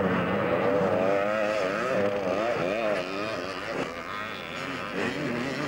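Vintage twinshock motocross bikes from the 250cc classes racing round the track, engines revving up and down with the pitch rising and falling again and again. It is loudest for the first three seconds, then drops back.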